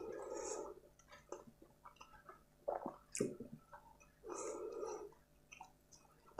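Close-miked wet chewing of a mouthful of rice, curry and roti, heard in bursts with small mouth smacks. Two sharp clicks come about three seconds in.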